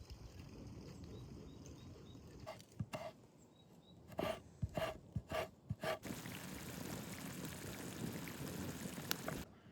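A farm animal giving a quick run of about seven short calls, about two and a half to six seconds in, over a steady outdoor hiss.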